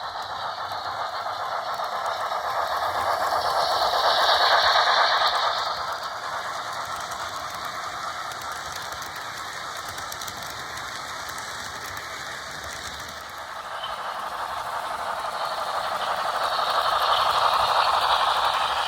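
HO-scale model train, a Pennsylvania Railroad K4s steam locomotive with heavyweight passenger cars, rattling along the track; it swells louder twice as the train passes close, about four seconds in and again near the end.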